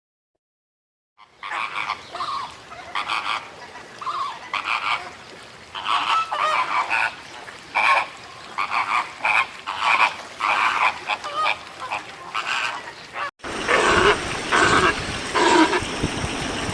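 Repeated short animal calls after about a second of silence, then an abrupt cut about 13 seconds in to a louder stretch with more calls over a noisy background.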